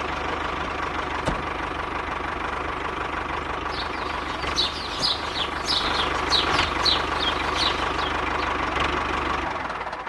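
Small motor of a DIY mini tractor running steadily with a low knocking hum, joined from about four to eight seconds in by a string of short, high, falling chirps.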